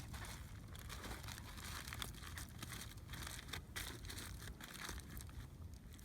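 Aluminium foil crinkling and crackling in a dense run of short, faint clicks.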